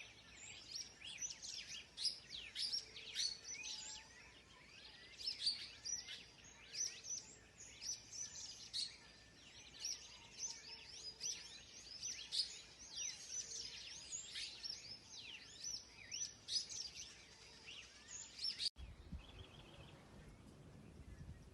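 A chorus of many birds calling at once, dense overlapping short chirps and whistles. About 19 seconds in, the sound cuts abruptly to a low rumbling noise with only faint calls.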